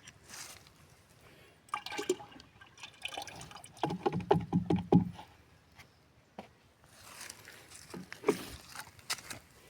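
Liquid, most likely rubber latex, pouring and gurgling into a container in uneven bursts, strongest about four seconds in, with a few knocks and splashes around it.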